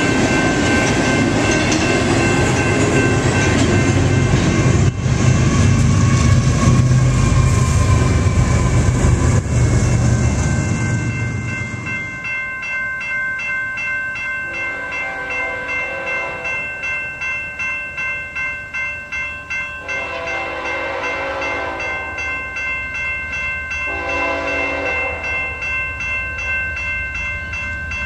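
A freight train's wheels rumble and clatter over the rails, fading out about eleven seconds in. Grade-crossing bells then ring steadily, about twice a second, while a diesel locomotive horn sounds several long blasts.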